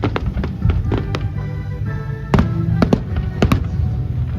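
Fireworks going off in a string of sharp bangs, the loudest about halfway through and again near the end, with music playing steadily underneath.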